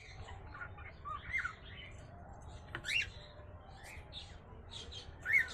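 Agitated cockatiel giving short, scattered chirps and squawks that slide up and down in pitch, with a louder squawk about three seconds in and another near the end.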